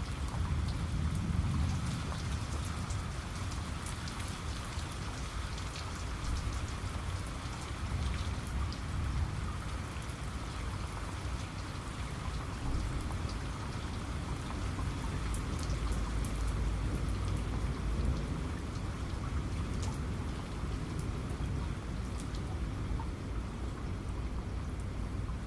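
Steady heavy rain, with individual drops striking a surface as sharp scattered taps. A low thunder rumble swells near the start and again about two-thirds of the way through.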